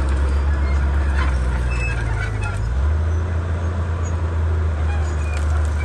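Komatsu D31P bulldozer's diesel engine running under work, a steady low drone that shifts in pitch about three seconds in, with scattered clicks and clanks.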